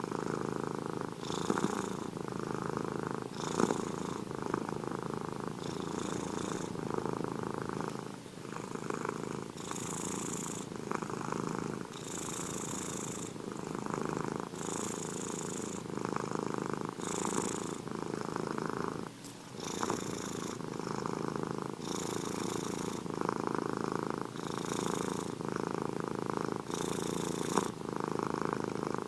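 Domestic cat purring steadily and close up, the purr swelling and easing in a slow rhythm with each breath, about one breath every second or so, with a brief pause about two-thirds of the way through.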